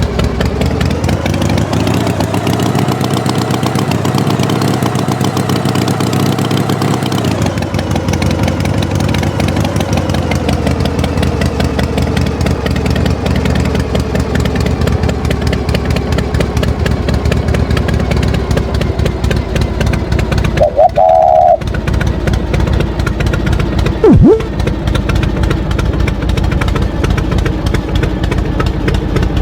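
Tractor engine running steadily. Its pitch climbs over the first few seconds, holds, then drops back at about a quarter of the way through and idles on. A short higher tone sounds about two-thirds of the way in, and a brief sharp squeak follows a few seconds later.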